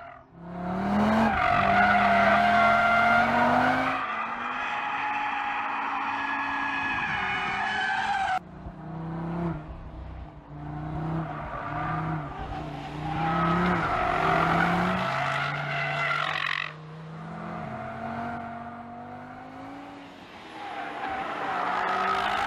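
Audi RS3 prototype's turbocharged straight-five engine revving hard on track. Its pitch climbs and drops in steps through gear changes, and the tyres squeal as the car slides through corners. The sound breaks off abruptly twice where passes are cut together.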